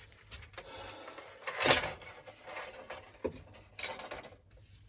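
Metal parts of a lawnmower's recoil pull-starter being handled while the recoil spring is fitted: scraping, then a loud clatter about a second and a half in, a sharp click and a shorter clatter near the end.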